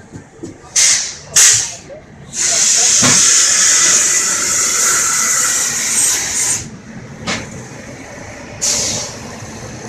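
Loud bursts of hissing air on a train: two short hisses, then one long hiss of about four seconds, and another short hiss near the end.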